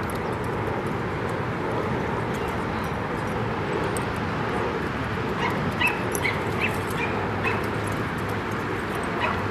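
Dogs giving a few short, high yips during play, a cluster of them a little past the middle, over a steady background rush.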